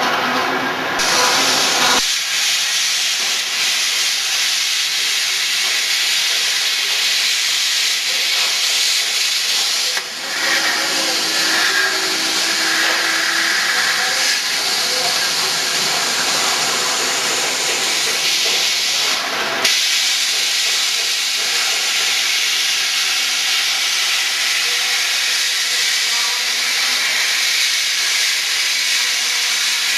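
CNC plasma cutting torch cutting metal: a loud, steady hiss of the plasma arc and compressed air, with short breaks about ten seconds in and again near twenty seconds.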